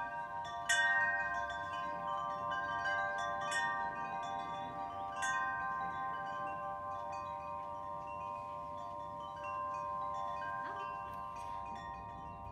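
Chimes ringing: several bell-like tones sound together and ring on, with a new note struck every second or two, the first and loudest about a second in.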